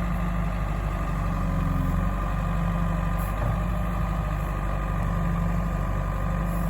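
Diesel engine idling steadily, with a low hum that swells slightly now and then.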